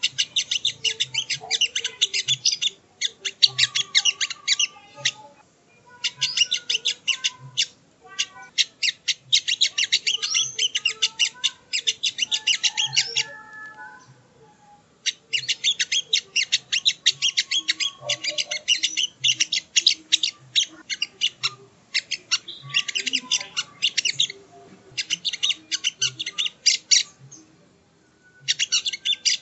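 A sogon (sogo ontong) bird singing in rapid, scratchy, high chattering phrases of a few seconds each, with short pauses between them.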